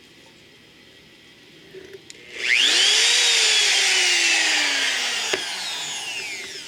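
Bosch handheld router switched on briefly: its motor whine rises sharply as it spins up about two seconds in, then falls slowly in pitch and fades as the bit coasts down after it is switched off, with a single click partway through the wind-down.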